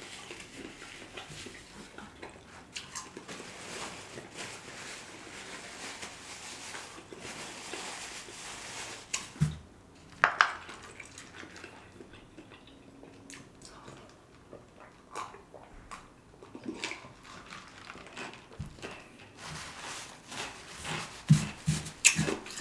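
Close-miked eating sounds of a person chewing, with mouth noises. There are a few sharp knocks and clicks about ten seconds in and again near the end.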